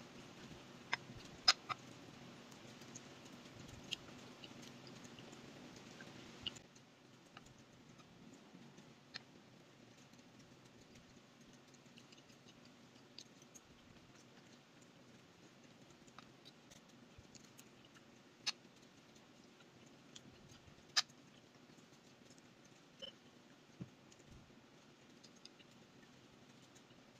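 Scattered sharp clinks of a metal fork against a ceramic plate, about a dozen spread irregularly, with a quick cluster in the first two seconds, over a faint steady background hiss.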